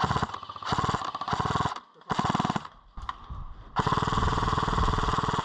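Airsoft gun firing on full auto in four bursts of rapid shots. The last and longest burst runs for about a second and a half near the end.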